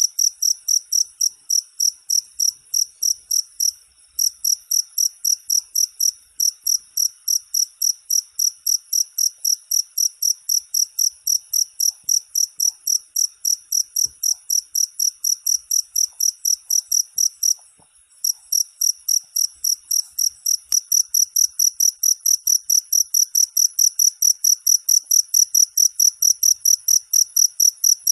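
A cricket (jangkrik) chirping steadily, a fast even train of high-pitched chirps about three or four a second, broken by a few brief pauses.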